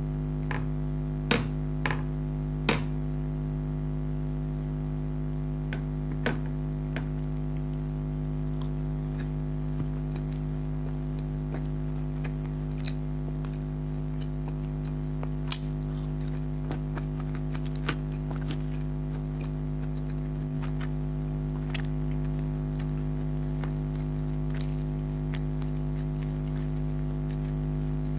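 Close-miked eating sounds of someone eating chicken karahi with naan: scattered short clicks and mouth sounds, the sharpest about halfway through. A steady low hum runs underneath.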